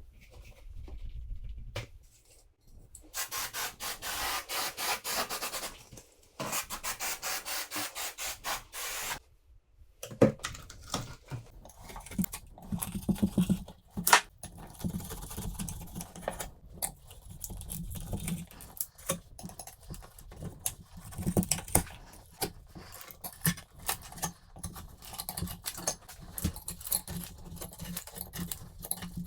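Tools and hands working a bath shower screen off a tiled wall. First come two stretches of fast, even rasping, each a few seconds long, then irregular scraping, rubbing and sharp clicks.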